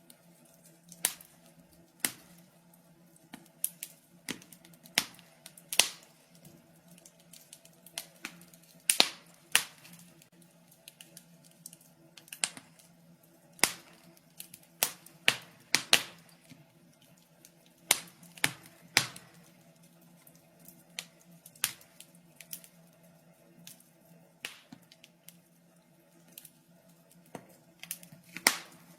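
Wood fire in a fireplace crackling, with sharp irregular pops and snaps scattered through, some much louder than others, over a faint steady hum.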